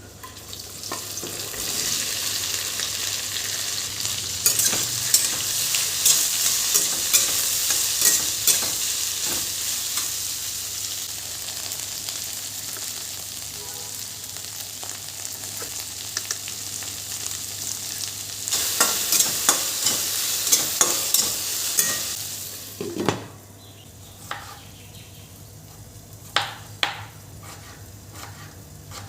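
Food frying in a pan, sizzling, while a spoon stirs and scrapes against the pan with repeated sharp clicks. The sizzle builds over the first couple of seconds and drops away abruptly a little past three-quarters of the way through, leaving only a few light knocks.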